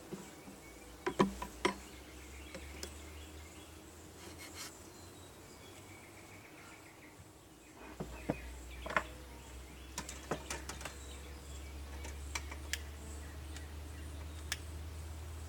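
Honeybees buzzing faintly and steadily, with scattered sharp clicks and knocks from equipment being handled. A low rumble gets louder about eight seconds in.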